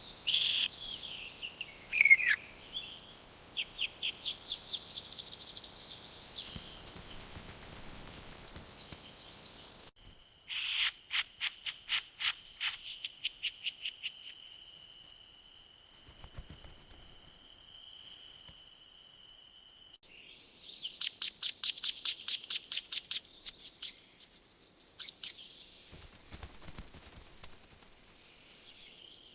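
Wild birds calling in quick runs of high chirps, several notes a second, starting and stopping in separate bursts. Between about ten and twenty seconds a steady high-pitched tone sits under the chirps.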